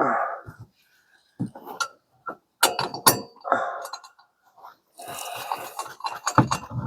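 Hand tools clinking and knocking on metal as the top nut of a newly fitted shock absorber is done up: a few scattered sharp strikes, with a short rustling hiss about five seconds in.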